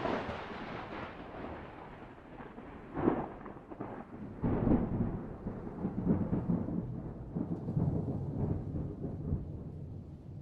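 Thunder: a sudden clap right at the start, then a long rolling rumble with further sharp cracks about three and four and a half seconds in.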